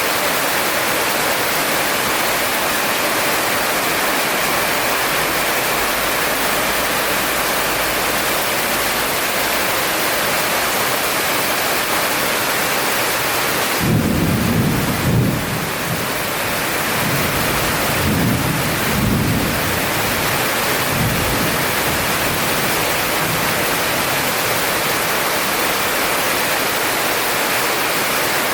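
Heavy rain falling in a steady hiss, with a roll of thunder rumbling in about halfway through, swelling twice and then fading.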